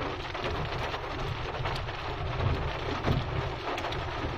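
Heavy storm rain falling and pattering on surfaces, a dense hiss full of small drop strikes, over a steady low rumble.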